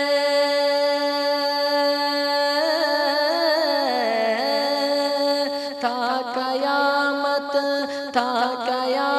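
Solo naat singing: one long note held steady for about two and a half seconds, then a wavering, ornamented melisma that dips lower around four seconds in and climbs again, over a steady drone.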